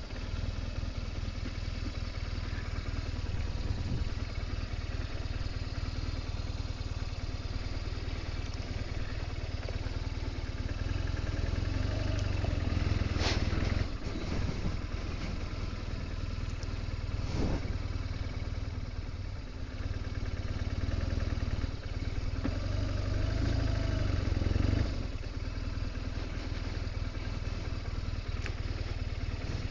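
BMW R1200GS Adventure's boxer-twin engine running at low speed as the bike is ridden slowly up a rough track, swelling louder twice with the throttle, with a couple of sharp knocks along the way.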